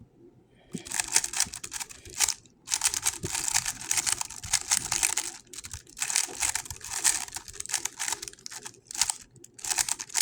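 GAN 11 M Pro speedcube being turned fast during a solve: dense runs of quick clicking turns starting under a second in, broken by brief pauses about two and a half, five and a half and nine seconds in.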